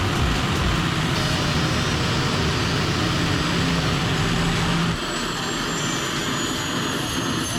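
Loud, steady car engine noise, changing abruptly about five seconds in, after which a thin high whine falls slowly in pitch.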